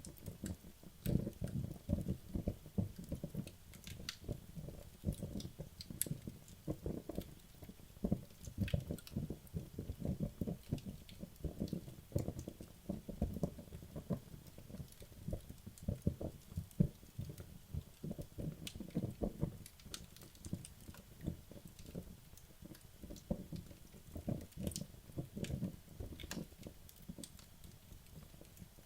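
Wood logs burning in a fireplace, crackling and popping in quick irregular snaps over a low fluttering of the flames.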